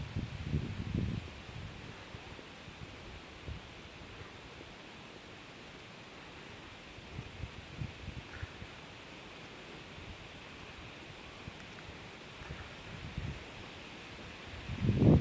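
Steady, high-pitched chirring of crickets or grasshoppers in a meadow, with faint low rumbles underneath. The chirring changes abruptly near the end.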